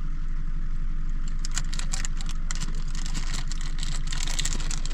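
A motor vehicle's engine running at idle with a steady low hum; from about a second in, rapid light clicking and rattling sits on top of it.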